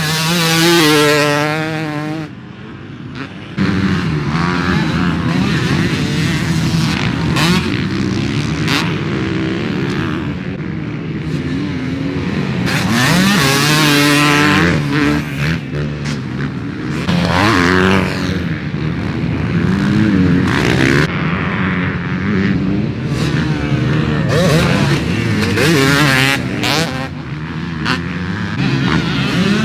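Two-stroke dirt bike with a Bill's Pipes expansion-chamber exhaust being ridden, its engine pitch rising and falling again and again with the throttle. The level drops briefly about two seconds in, then the revving picks up again.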